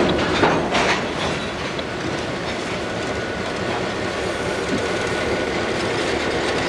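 Freight train boxcars rolling past at a grade crossing, their wheels clicking steadily over the rail joints. There are a couple of sharp, louder sounds in the first second.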